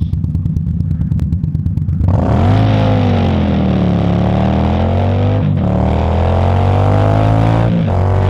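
Indian Scout Bobber's V-twin idling with even pulses, then pulling away hard about two seconds in, the revs climbing and dropping back as it shifts up through the gears, with short breaks at each change.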